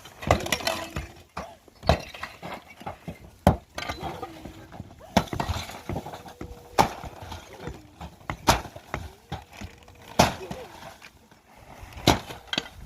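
Irregular sharp knocks and clinks of hard objects striking one another, about a dozen spaced a second or two apart, with a faint wavering voice in between.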